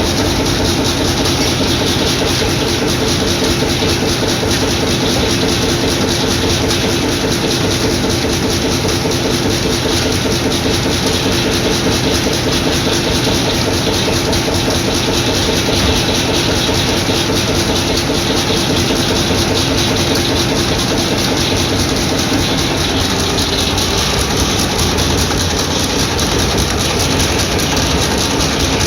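A circular sawmill and its vintage hot-bulb engines running steadily: a dense, continuous mechanical din with a fast, even beat that holds throughout.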